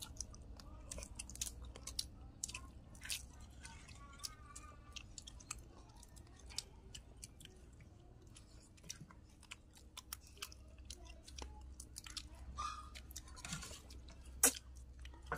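Several people chewing and eating with their mouths close to the microphone, with many short sharp clicks scattered throughout and one louder click near the end.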